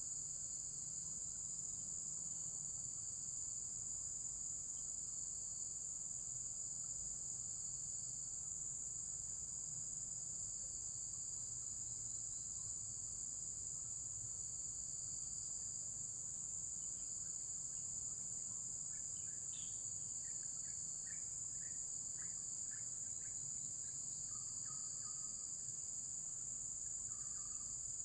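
Steady, high-pitched chorus of insects such as crickets, continuous and unchanging, with a few faint short chirps in the second half.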